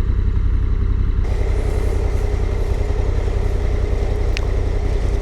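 Honda Africa Twin CRF1100's parallel-twin engine idling steadily, a continuous low rumble.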